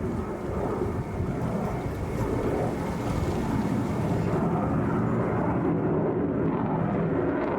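Sukhoi Su-57 fighter jet's engines heard from the ground during a flying display, a steady rushing rumble.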